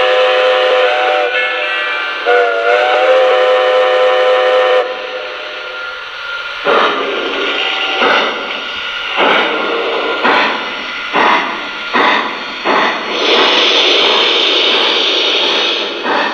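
O scale Lionel Legacy steam locomotive's onboard sound system: a chord steam whistle ending about a second in, a second long whistle blast, then steam chuffs with hiss starting at about one a second and quickening as the engine pulls away.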